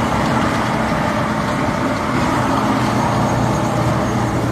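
Truck engine running steadily under way, with a constant low hum and road noise.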